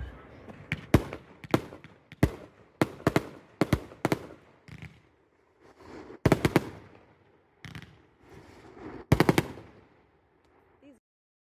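Fireworks going off in a series of sharp bangs: single reports spaced under a second apart, then two quick clusters of rapid bangs. The sound stops abruptly about a second before the end.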